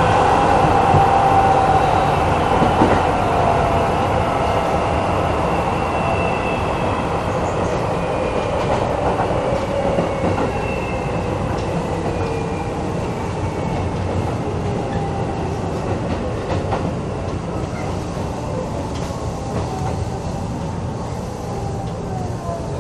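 Inside a renewed Keisei 3500-series resistance-control commuter car: steady wheel-on-rail rumble with a few rail-joint clicks, and a motor and gear whine that slowly falls in pitch as the train slows. The whole sound gradually gets quieter.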